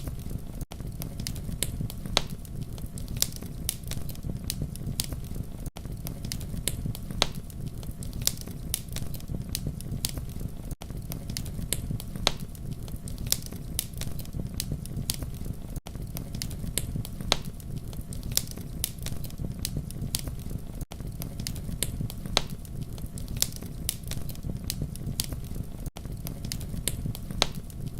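Campfire crackling: a steady low rumble of burning with frequent sharp pops and snaps. A brief dip in the sound comes about every five seconds, where the looped fire track repeats.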